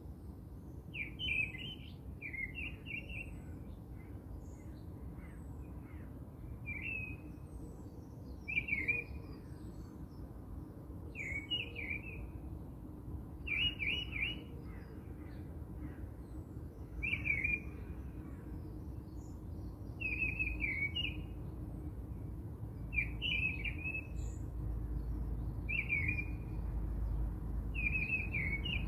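A small bird chirping in short, repeated phrases about every two to three seconds, over a low, steady background rumble.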